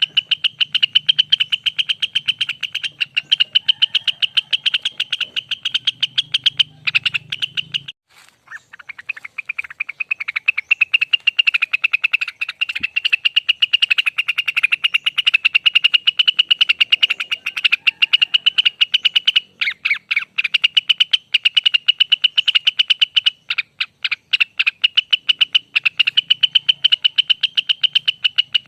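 Blue-winged leafbird (cucak wilis) singing a long, rapid trill of fast repeated notes, with a short break about eight seconds in.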